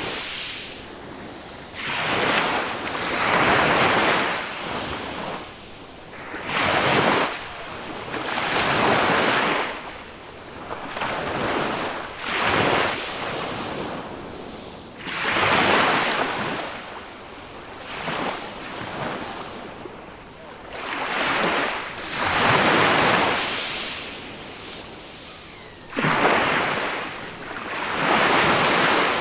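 Small waves of a calm sea breaking on the beach one after another, each a rush of surf that swells and fades every two to four seconds.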